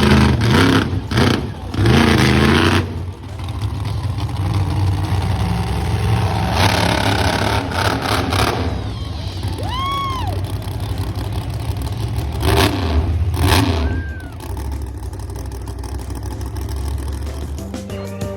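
Monster truck engines running and revving, in loud surges over a steady low rumble. Two short rising-and-falling whoops come in the middle.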